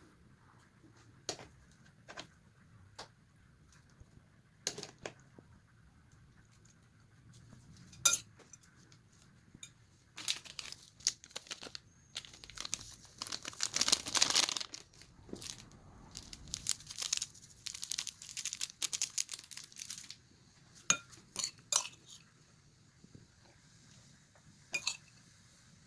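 Scattered clicks and clinks of objects being handled, with a dense stretch of crinkling about ten seconds in that lasts around ten seconds.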